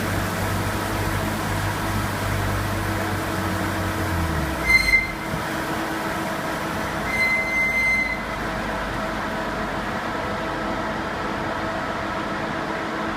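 Subaru Impreza WRX STi on a chassis dynamometer winding down after a power run: a steady low drone falls away about four and a half seconds in, with two short high squeals then and again about seven seconds in, while a steady mechanical hum carries on.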